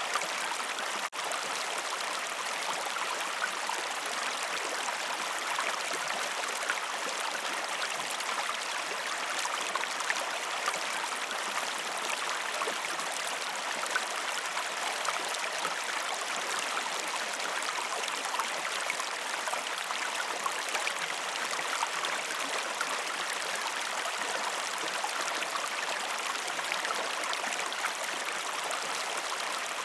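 Waterfall: a steady, even rush of falling water, broken only by a momentary dropout about a second in.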